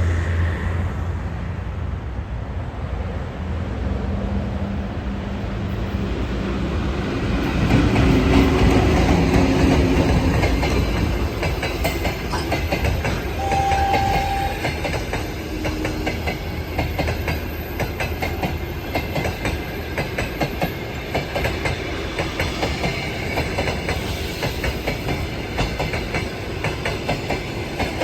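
A VL10 electric locomotive hauling a passenger train comes up and passes, loudest about eight seconds in. The coaches follow, rolling by with a steady clickety-clack of wheels over the rail joints.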